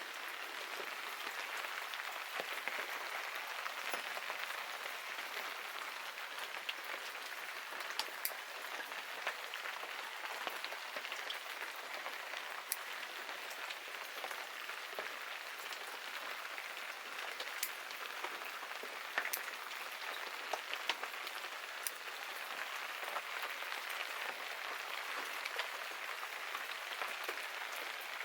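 Steady rain falling, an even hiss with scattered sharp drip ticks from single drops landing close by.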